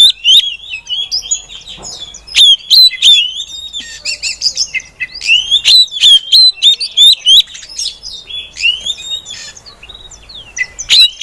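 Female oriental magpie-robin (kacer) calling: runs of quick, sharp, high chirps and short sweeping whistles in clusters, with brief quieter gaps between them.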